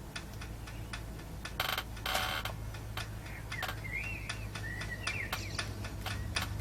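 Scattered light clicks and taps from handling a tablet while music is being picked, with two short rustles early on, over a steady low hum. A bird chirps a few times in the middle.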